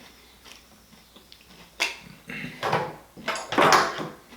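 Whole boiled lobster's shell being handled and cracked: a sharp click about two seconds in, then two louder crackling bursts near the end.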